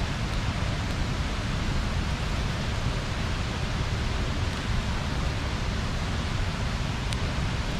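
Steady rushing of river water pouring over a small weir.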